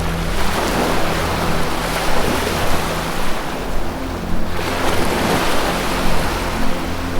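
Ocean surf washing in and drawing back, in two long swells, over soft held low music notes.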